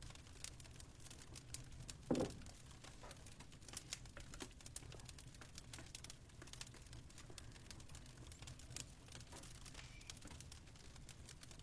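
Fire in a fireplace crackling faintly: irregular small snaps and pops, with one louder pop about two seconds in, over a low steady hum.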